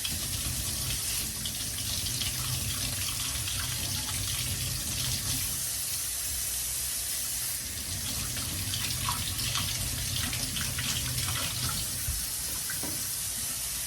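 Kitchen tap running steadily into a sink while yellow lemon cucumbers are rinsed under the stream, with small splashes and knocks.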